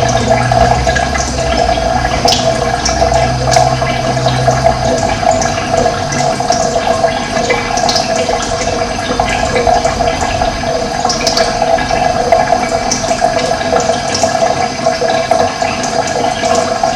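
Steady rush of running water, with wild birds chirping in short calls over it. A low hum underneath stops about five seconds in.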